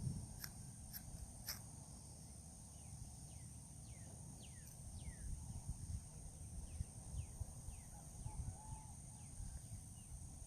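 A bird singing a series of short whistled notes that each slide downward, over a steady high-pitched insect drone and a low wind rumble. Three sharp ticks come in the first second and a half.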